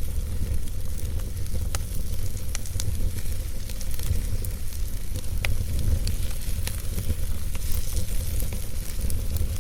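A fire burning in a fireplace: a steady low rumble of flames with sharp crackles and pops scattered irregularly through it.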